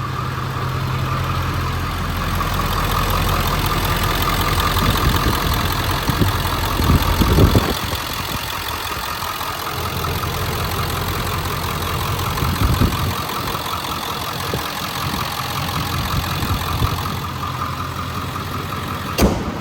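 The 7.3-litre Power Stroke turbo-diesel V8 of a 2000 Ford F-250 idling steadily. A short sharp click comes near the end.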